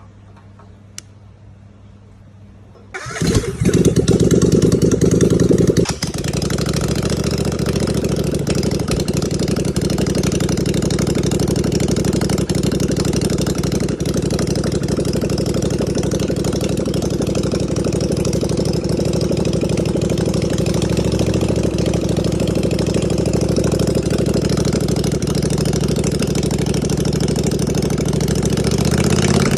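An engine being test-run after a repair. It starts suddenly about three seconds in, runs louder for about three seconds, then settles at about six seconds into a steady idle.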